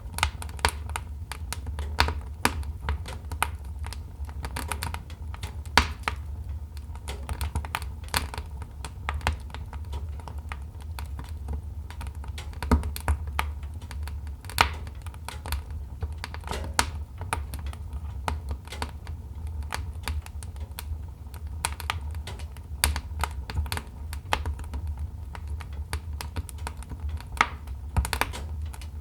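Wood fire in a fireplace crackling: irregular sharp pops and snaps, some louder than others, over a steady low rumble.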